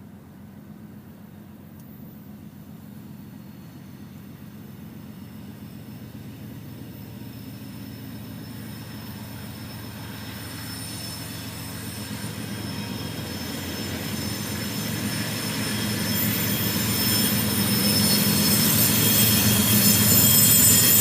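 A train approaching and growing steadily louder, a low rumble of cars on the rails. From about halfway in it is joined by high, thin squealing from the wheels on the rails.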